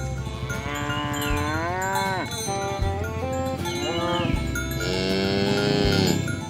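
Two long cow moos: the first about a second in and the second about five seconds in, each rising and then dropping sharply in pitch at its end. Behind them runs music with bell-like notes and a regular low beat.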